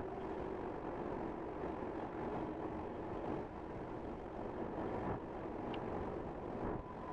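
Steady road and tyre noise inside the cabin of a 2023 Tesla Model Y electric car on the move, with no engine sound.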